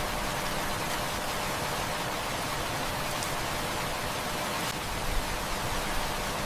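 Heavy rain falling in a steady, even hiss, with a few faint sharp clicks.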